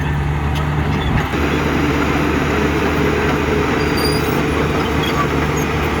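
Heavy diesel engine of construction machinery running steadily under load, with a brief dip and a shift in its tone about a second in.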